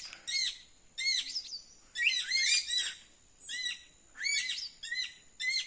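A group of anis screaming in repeated bursts of arched, rising-and-falling calls, several birds overlapping, about six bursts with short gaps between them. These are alarm calls mobbing a hawk near their nest.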